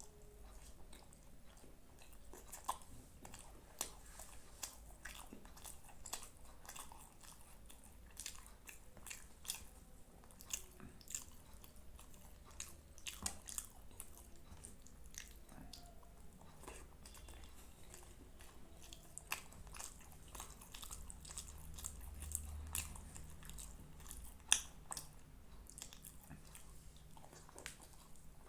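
A person chewing and biting food close to the microphone: irregular wet smacks and crisp clicks throughout, with one louder click near the end.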